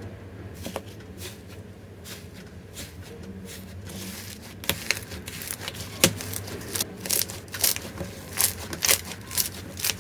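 Slime being squeezed and poked by hand, giving a run of sharp crackling pops and clicks that come thicker and louder from about halfway through.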